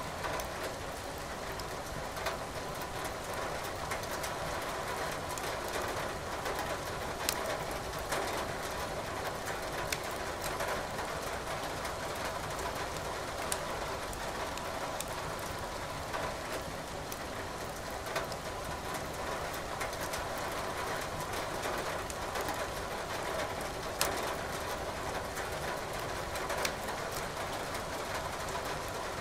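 Steady rain with wood crackling in a fireplace: a constant even hiss, with a sharp pop from the burning firewood every few seconds.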